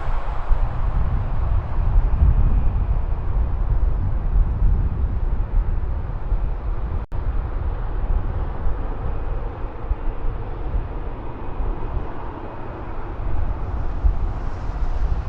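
Jet airliner engines rumbling steadily in an outdoor recording, with a strong low rumble and a brief break about seven seconds in.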